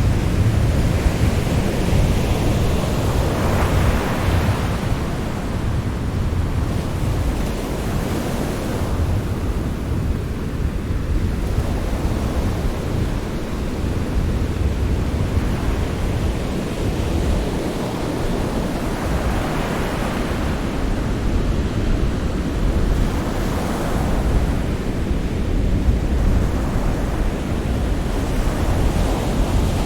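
Sea surf washing continuously, with a deep low rumble under it and waves swelling up and falling back about four times.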